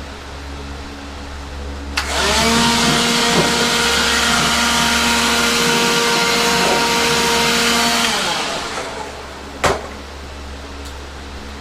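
A handheld electric power tool's motor is switched on with a click and runs at a steady pitch for about six seconds, then is switched off and winds down. A sharp clack follows about a second later.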